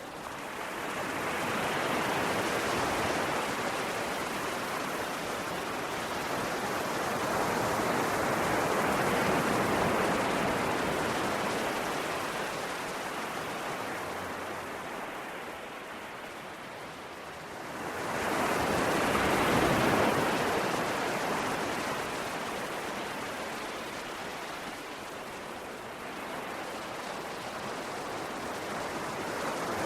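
Ocean waves breaking and washing on a shore, the surf rising and falling in slow swells, with one stronger wave surging in about eighteen seconds in.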